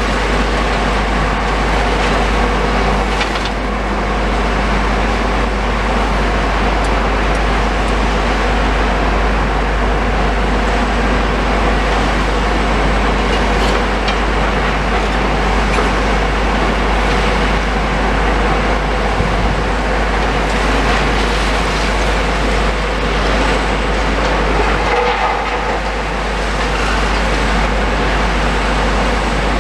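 Heavy demolition machinery running steadily at a demolition site, a continuous engine drone mixed with the noise of working rubble, with a few faint knocks.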